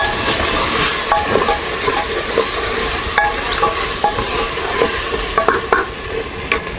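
Crushed onion and ginger-garlic-chilli paste frying in hot oil in an aluminium pot, sizzling steadily while a steel ladle stirs it, with scattered light clinks and scrapes of the ladle against the pot.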